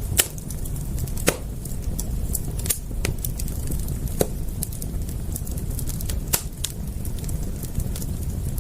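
Wood fire crackling: irregular sharp snaps and pops over a steady low rumble, with a handful of louder pops scattered through.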